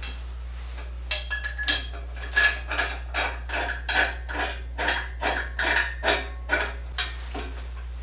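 Repeated metal-on-metal clinks and taps, each with a short ring, about two a second, as steel bars and tools are worked against a heavy lathe to lift it off its machine skates. A steady low hum runs underneath.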